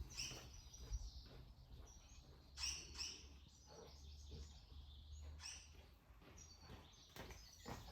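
Near quiet: faint bird chirps now and then over a low steady hum.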